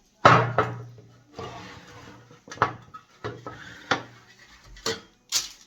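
Kitchenware being handled: a series of sharp knocks and clatters, the loudest about a quarter second in. Several are followed by a short low ringing.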